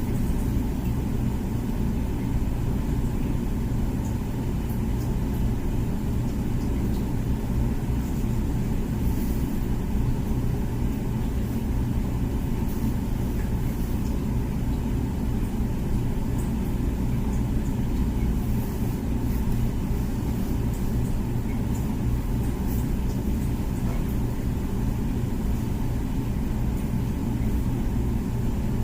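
Comfee dishwasher running its wash cycle: a steady low hum and rumble from the wash pump, even throughout, with faint light ticks above it.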